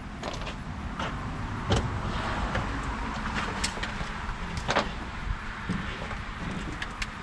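A vehicle running with a steady low rumble, with a few sharp knocks and rattles, the loudest about two seconds in and near five seconds in.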